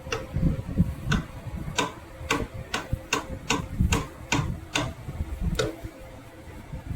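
A dozen or so sharp metallic clicks and taps from hand work on the Bullet's engine. They are irregular, coming two to three a second in the middle stretch and thinning out near the end.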